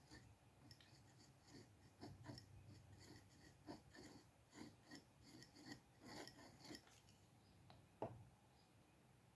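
Faint scratching of a drawing pen or pencil on paper in short strokes, with one sharper tap about eight seconds in.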